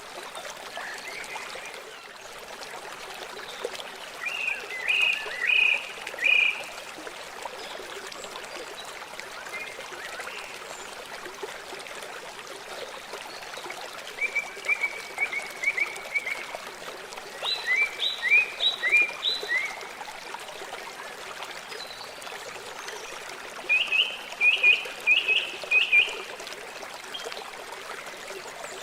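River water flowing steadily, with a bird calling over it in four short phrases of quick repeated chirps.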